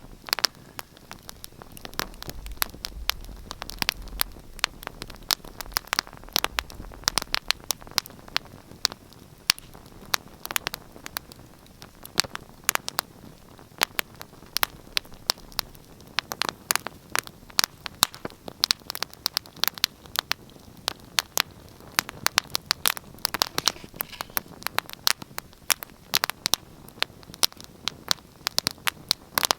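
Wood fire in a fireplace crackling: many sharp irregular pops and snaps over a soft steady hiss of burning, with a faint low rumble of the flames in the first few seconds.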